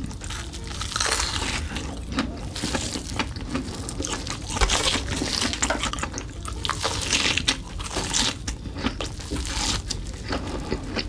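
Close-miked mukbang eating sounds: biting and chewing a giant sausage with a red crumb coating, its bitten end dipped in cheese sauce, heard as a dense, irregular run of crackling clicks and mouth sounds.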